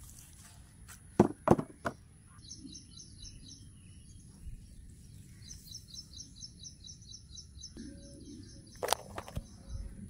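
A bird calls in a long run of short high chirps, about four a second, which stops and then starts again. Three loud knocks of hand-handling come about a second in, with another near the end.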